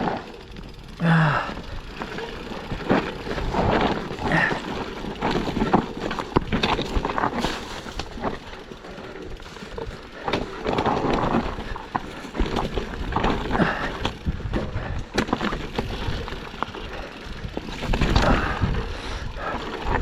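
Yeti SB160 enduro mountain bike descending a steep, dry, water-rutted trail: tyres rolling and skidding over loose stones, with frequent irregular knocks and rattles from the bike over the rough ground.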